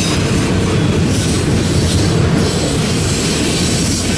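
Enclosed auto rack freight cars rolling past close by: a loud, steady rumble and clatter of steel wheels on the rail.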